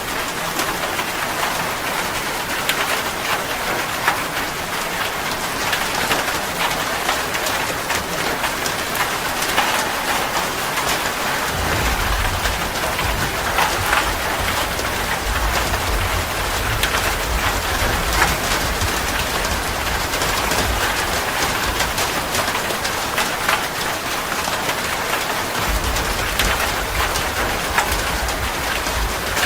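Steady rain: a dense, even hiss of falling drops with scattered sharper drop ticks. A deep low rumble comes in suddenly about twelve seconds in and stays under the rain.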